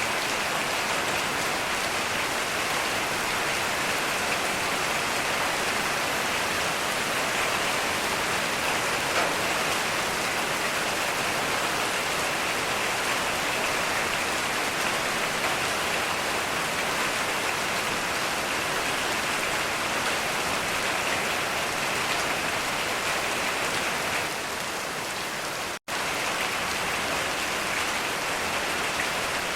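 Heavy rain falling steadily, an even dense hiss of drops. Near the end it dips slightly, then cuts out for a split second before resuming.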